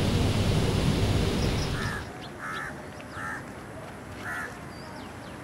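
A bird giving four short calls, roughly one a second, with a few faint higher chirps between them. Before the calls, a steady background rumble fades away about two seconds in.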